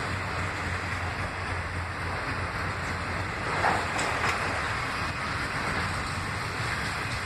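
Freight train of autorack cars rolling past, a steady rumble of wheels on rail, with a couple of brief knocks about four seconds in.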